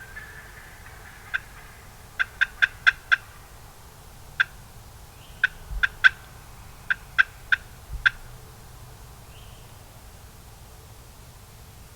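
Turkey yelps: a string of short, sharp single notes in uneven runs, including one quick run of five, with a couple of low thumps near the middle.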